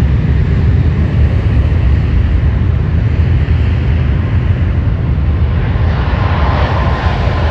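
Jet airliner engines, a loud steady deep rumble, with a higher whine and hiss building about six seconds in.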